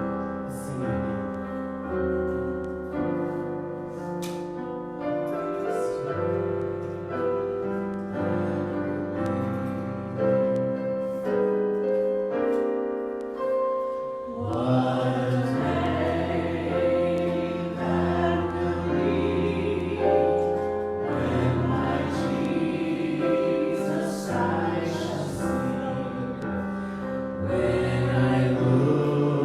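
A slow worship song. Piano chords play alone at first, then about halfway through a group of voices comes in, singing along with it.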